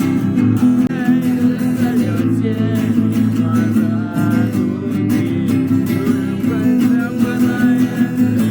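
Acoustic guitar strummed steadily, playing the chords of a song in an instrumental stretch between sung lines.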